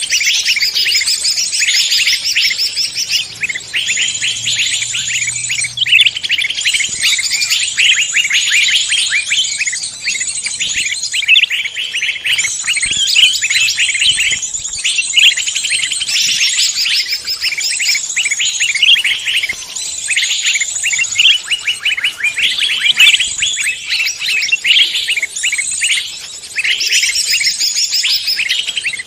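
A dense chorus of songbirds, many overlapping, chirping and twittering in rapid high notes without a break, as in a mixed bird-lure recording.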